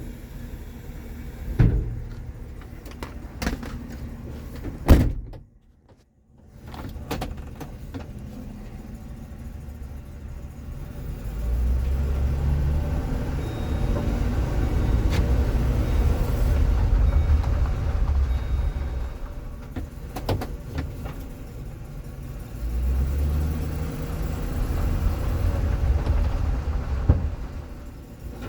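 Chevrolet Express 3500 dump truck making a low, steady rumble that comes in about eleven seconds in and swells twice, the second time more briefly. Several sharp knocks come before it in the first five seconds.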